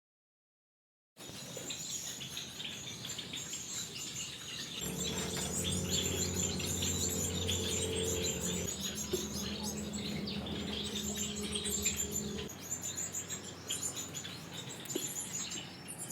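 Gouldian finches chirping, with many quick high chirps, starting about a second in after a moment of silence. A low steady hum runs underneath from about five seconds in until about twelve.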